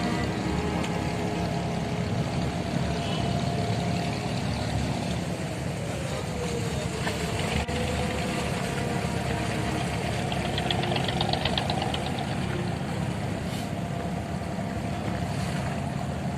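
Engine of a petrol abra, a wooden Dubai Creek ferry boat, running steadily with a low rumble, with a faint wavering tone above it.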